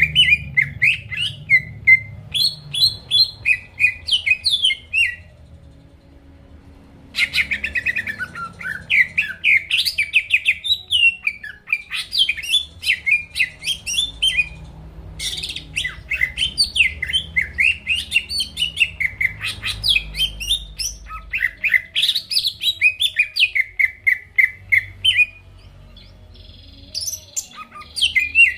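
Cucak ijo (leafbird) singing in long runs of rapid, varied chirps and sweeping whistles. It breaks off for about two seconds around five seconds in, and briefly again near the end.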